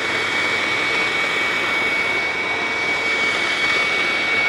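Hoover WindTunnel Plus self-propelled upright vacuum running on carpet with its self-drive switched on: a steady rush of air with a thin, steady high whine over it. The owner finds that it runs very oddly.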